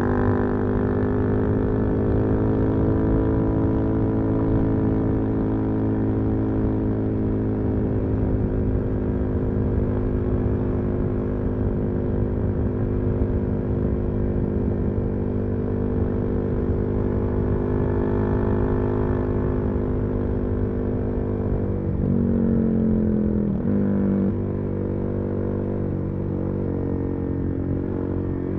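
Suzuki DR-Z400SM single-cylinder four-stroke engine with a full Yoshimura exhaust, running at steady cruising revs. About three-quarters of the way through the revs briefly change, and the engine then runs a little quieter.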